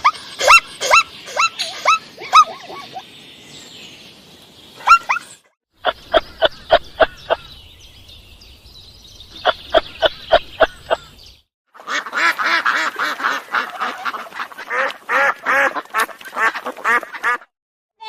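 Ducks quacking: strings of short, rapid quacks in three runs, each broken off by a brief silence.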